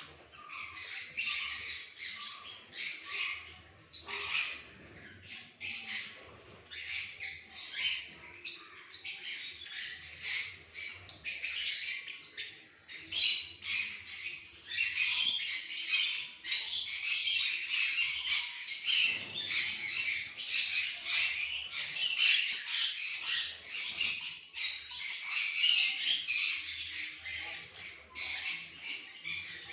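A group of small pet birds chattering and squawking together in rapid, shrill, overlapping calls, busier and louder from about halfway through.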